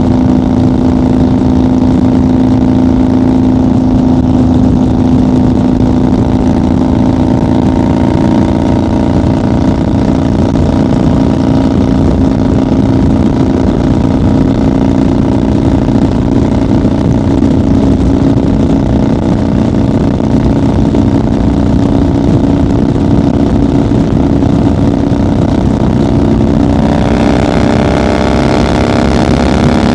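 1990 Harley-Davidson FXR's V-twin engine running at a steady cruising speed, with its revs climbing as it accelerates near the end.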